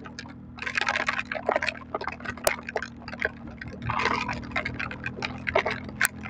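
Heavy rain spattering in irregular crackling bursts on the microphone, over the steady low hum of a Yuki Funrider 125 motorcycle engine running at an even speed.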